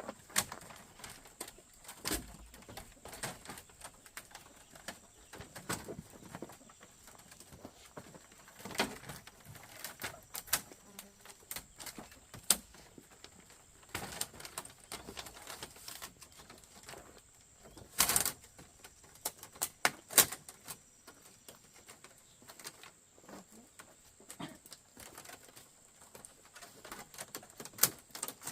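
Scattered knocks and clicks at irregular intervals, with a louder knock about 18 seconds in and a sharp one about 20 seconds in.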